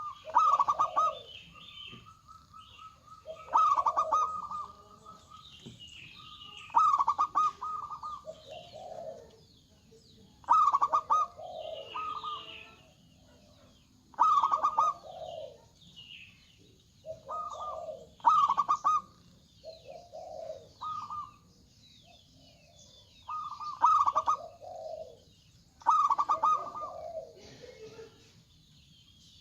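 Zebra doves (perkutut) cooing, a phrase every few seconds: a fast stuttering run of high notes dropping into lower coos. Small birds chirp faintly in between.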